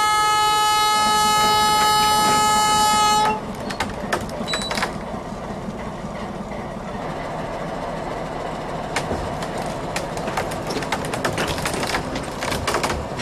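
A locomotive horn sounds one long steady blast of about three seconds. Then comes the rumble of the train moving slowly on the track, with scattered clicks and knocks that grow denser near the end.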